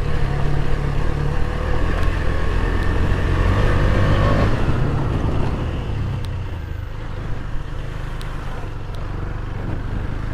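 KTM 250 Duke's single-cylinder engine running under way on a rough dirt track, louder for the first few seconds and then easing off about halfway, with a few faint knocks.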